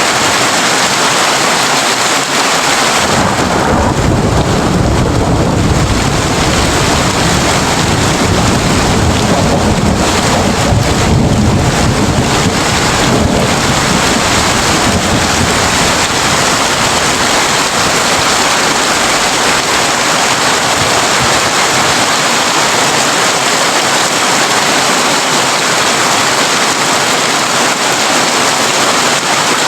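Heavy rain drumming steadily on a tin roof. About two seconds in, a long, low roll of thunder rumbles under it, then slowly dies away over the following fifteen seconds or so.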